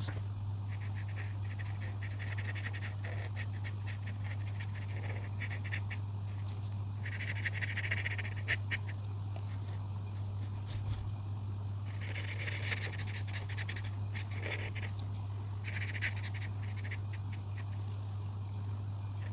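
A coloring tool scratching across paper in repeated strokes, in bursts of a second or two with short ticks in between, over a steady low hum.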